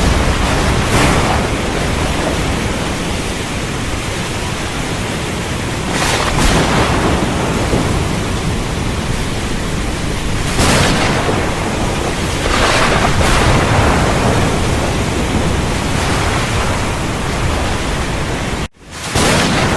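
Heavy rain falling steadily under low, rolling thunder, the sound swelling several times. About a second before the end it cuts out abruptly for a split second and comes straight back.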